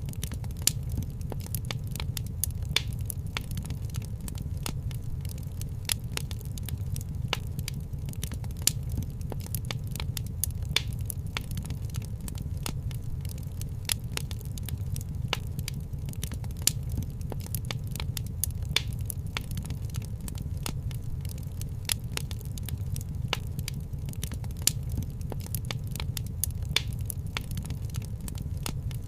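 Wood fire crackling in a fireplace: frequent irregular sharp pops and snaps, a few louder ones, over a steady low rumble.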